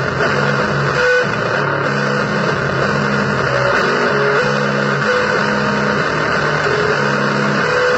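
Loud noise music built on distorted electric guitar: a thick, steady wall of hiss and distortion over held low chords that change every second or so, with a few higher single notes.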